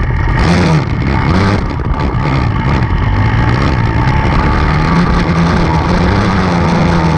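Off-road enduro motorcycle engine running under throttle, its pitch rising and falling as the rider works the throttle, then holding fairly steady for the last couple of seconds.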